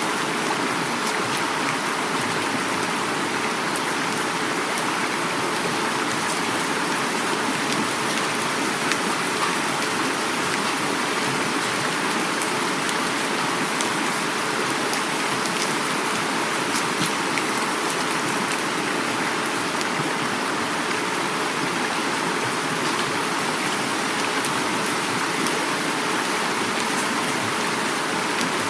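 Heavy rain falling steadily, many drops pattering on surfaces, mixed with the rush of flowing river water.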